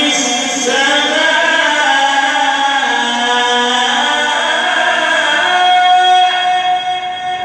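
A male reciter chants the Quran in melodic tajweed style, drawing out long held notes that slide slowly in pitch, with one long steady note near the end.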